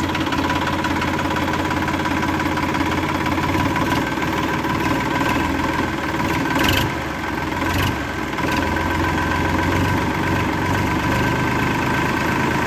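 Motor of a DIY mini tractor running steadily under load, a continuous pitched drone with a slight dip about seven seconds in.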